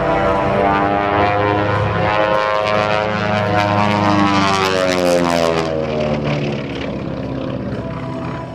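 Beech 18's twin Pratt & Whitney radial engines droning as the airplane passes close. Their pitch sweeps and then drops about five seconds in as it goes by, and the sound fades slightly near the end.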